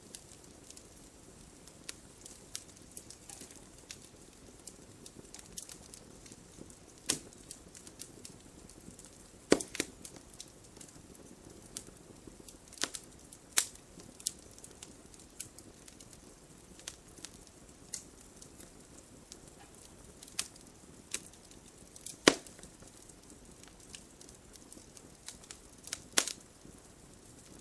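Wood fire burning in a fireplace: a low steady hiss under irregular sharp crackles and pops of burning logs, with a few louder snaps, the strongest about a third of the way in and again near 22 seconds.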